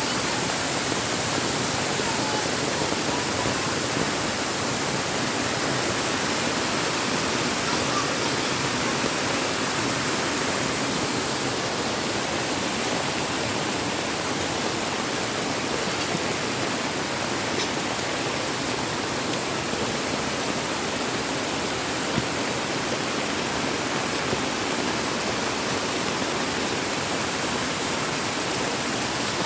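Rainwater waterfall pouring steadily, an even unbroken rush of falling water.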